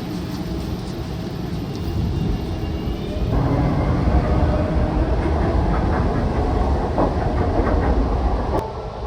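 Elevated train rumbling past overhead, its wheels clattering on the tracks; the rumble swells about three seconds in and eases off near the end.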